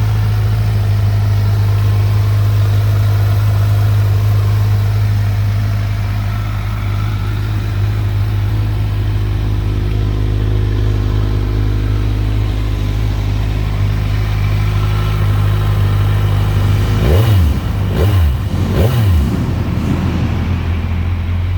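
Kawasaki Z1000SX's inline-four engine idling steadily, then blipped three times in quick succession near the end, each rev rising and dropping back to idle.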